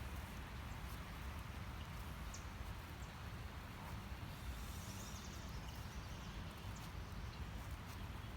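Steady outdoor background noise with a low rumble, and a few faint high chirps scattered through it.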